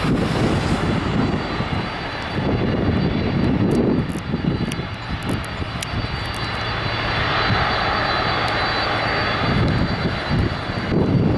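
Airbus A320-family airliner's jet engines at takeoff power: a loud rumble that swells and fades, with a thin steady high whine and a hiss that grows in the middle.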